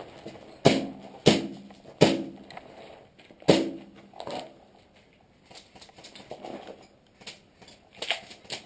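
Airsoft gunfire: four sharp cracks in the first few seconds, each ringing briefly, then a weaker one and a couple of fainter cracks near the end.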